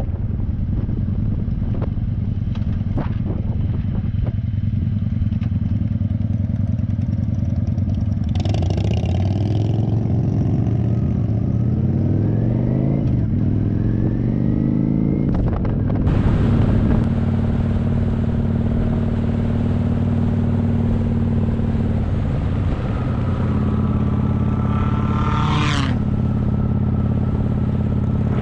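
Motorcycle engine running while riding, its pitch rising and falling several times through the middle as it speeds up and changes gear, then holding steady.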